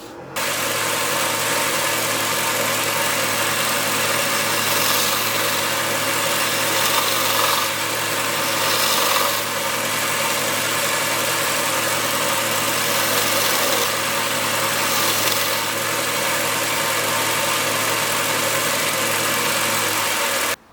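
An electric power tool running steadily at full speed, a low hum under a loud hiss that swells a few times. It starts suddenly and cuts off suddenly near the end.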